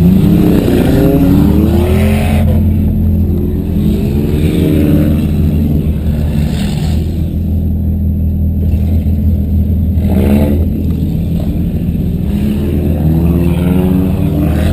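Demolition derby car engines running loudly, revving up and down near the start and again about ten seconds in.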